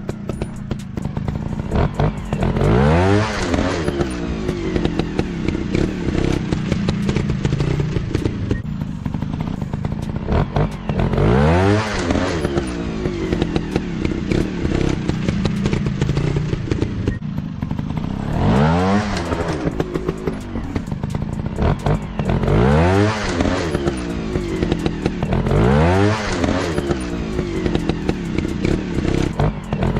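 Dirt bike engines running, revved hard in repeated bursts whose pitch climbs and falls every few seconds, with clattering knocks over the engine note.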